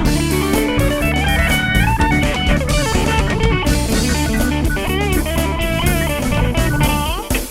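Live band playing an instrumental passage: a lead guitar solo of bent and sliding notes over drum kit and bass. A quick rising slide comes near the end, then a brief drop in level.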